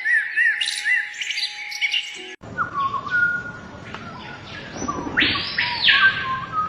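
Birds calling: a run of quick arching chirps, then, after an abrupt cut about two and a half seconds in, a different recording with lower whistled notes and two loud, noisy calls near the end.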